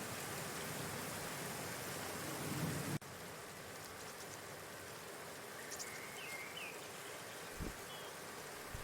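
Steady outdoor hiss, rain-like, that drops suddenly in level about three seconds in, with a few faint short bird chirps a little past the middle and two brief low thumps near the end.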